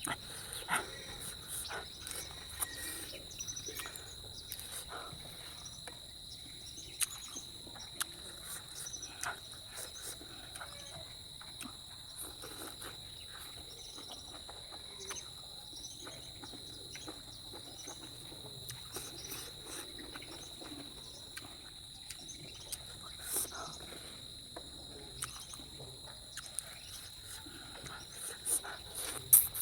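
Steady high-pitched drone of insects trilling, with many small clicks and taps of eating and utensils close by, a few louder ones near the end.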